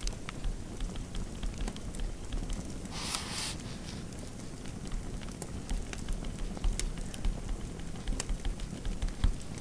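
Fireplace fire crackling over a low steady rumble, with scattered small pops and snaps. A brief scratchy rustle comes about three seconds in.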